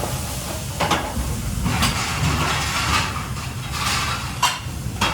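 Food frying in a pan, a steady hiss and sizzle, with a utensil stirring and scraping through it and several sharp knocks against the pan.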